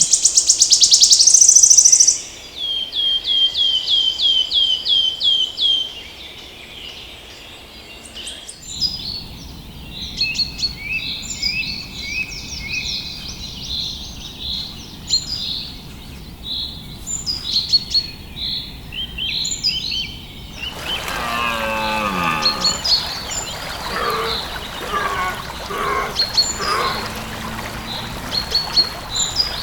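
Wild birds singing and calling. It opens with a loud, fast, very high trill, then a run of about eight quick repeated notes, then many short chirps from several birds. The background changes suddenly a few times, as between separate recordings.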